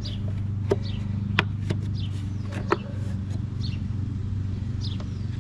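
Metal sockets clicking and clinking a few times, sharp and separate, as a 5/8 socket is picked from an SAE socket set, over a steady low hum.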